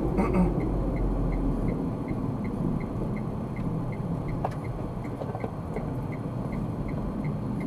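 Car driving, with steady road and engine noise heard from inside the cabin. Over it is a light, even ticking of about three clicks a second, typical of the turn-signal indicator before a left turn.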